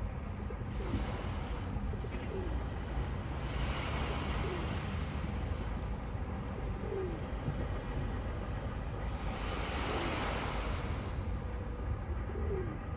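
Sea waves washing in over a steady low rumble, with two swells about four seconds in and around ten seconds. A dove coos repeatedly, in short calls every second or two.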